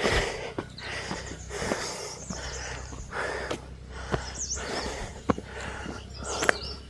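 A person breathing hard from the exertion of hiking, with loud, noisy breaths in and out about every second and a half.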